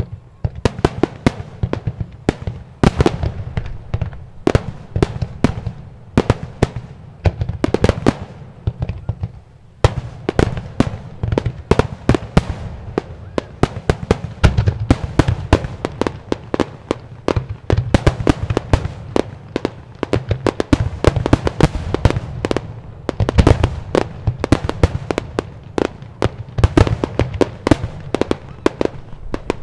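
Aerial fireworks in a rapid barrage: many shell bursts and sharp bangs a second over a low rumble. There is a brief lull just before ten seconds in, then the barrage picks up again.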